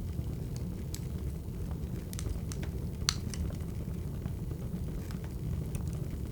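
Wood fire crackling: scattered sharp pops and snaps over a steady low rumble of burning logs, with the loudest pop about three seconds in.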